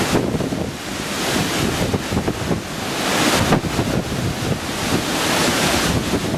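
Hurricane surf crashing and washing against a seawall, with strong storm wind buffeting the microphone in rumbling gusts. The roar swells and eases in waves, loudest a few seconds in.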